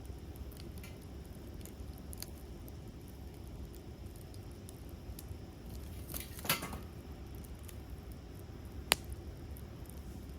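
Wood campfire crackling: scattered small ticks over a steady low background, a short burst of crackles a little past halfway, and one sharp pop near the end, the loudest sound.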